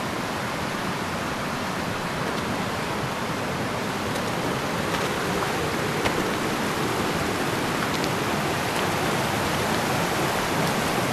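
A fast mountain river rushing, a steady, unbroken noise of water.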